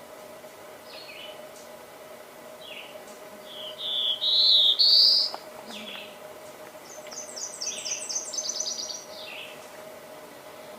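Black-throated blue warbler singing one loud buzzy phrase of a few notes rising in pitch, about four seconds in. Other birds chirp at intervals and give a high, rapid series of notes later on, over a steady faint hum.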